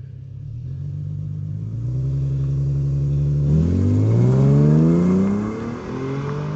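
Infiniti G37x's V6 engine held at raised revs on the brake, then the car launches: the engine note climbs steadily from about three and a half seconds in, peaks, and drops back as the automatic shifts up near the end.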